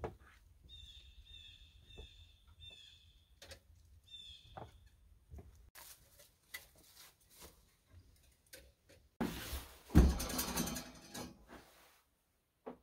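A bird chirping, a string of short high calls repeated about every half second for the first five seconds, over faint knocks. Later come scattered clicks and, about ten seconds in, a loud rustling clatter that dies away over a couple of seconds.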